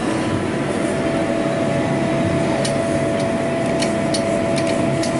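Arcade machines humming steadily with one constant electronic tone. From about halfway, a string of sharp clicks.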